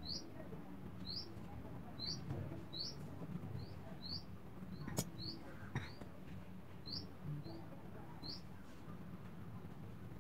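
A bird chirping: about a dozen high, short chirps that rise in pitch, spaced roughly half a second to a second apart. A single sharp click about halfway through.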